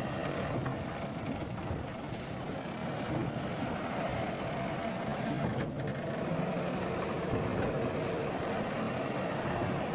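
Heavy diesel earthmoving machinery running steadily, a continuous engine drone with a few brief clinks.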